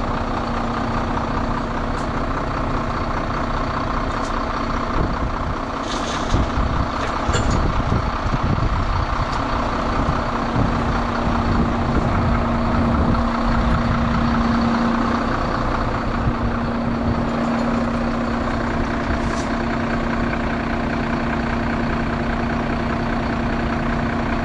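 Heavy recovery truck's engine running steadily to power its hydraulic winch, which is taking up the cable on the ditched truck. There is a constant whine throughout, a little louder from about seven seconds in, with a couple of brief hisses around six and nineteen seconds.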